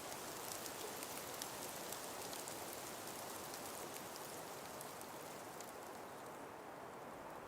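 A steady breeze through an ice-covered winter forest, heard as an even hiss with a scatter of light pattering ticks that thin out near the end.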